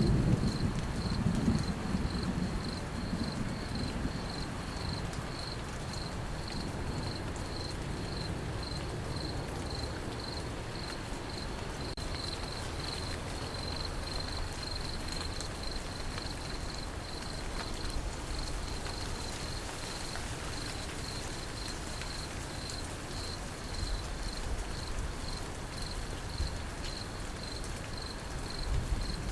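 Crickets chirping in a steady, regular pulse over falling rain. A low roll of thunder dies away over the first few seconds, and another begins right at the end.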